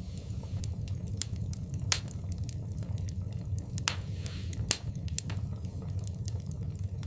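Wood fire in a fireplace crackling: irregular sharp pops and snaps over a steady low rumble of the flames, with a few louder pops around two, four and almost five seconds in.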